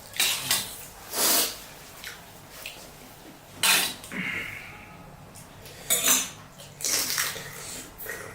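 Eating pani puri: a series of short, sharp crunches and slurps from biting into the crisp puri shells filled with spiced water, mixed with clinks of dishes and cutlery.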